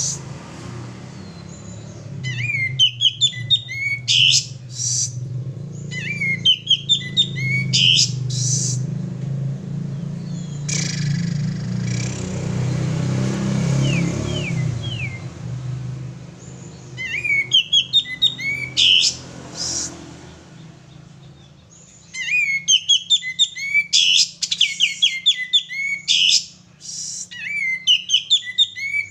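Male kapas tembak bulbul singing in repeated bursts of fast, bright chirping phrases, pausing for several seconds in the middle. A low steady hum runs underneath, loudest during the pause.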